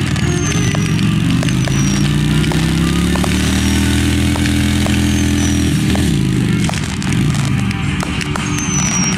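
Motorcycle engine running, its pitch slowly rising and falling, shifting about six seconds in.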